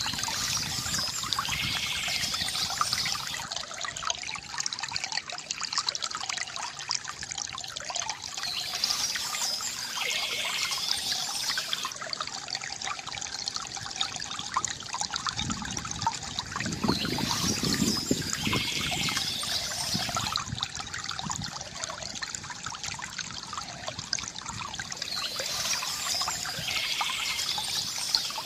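Water trickling and gurgling steadily from a bamboo fountain spout, with a brighter splashing patch that comes back about every eight seconds.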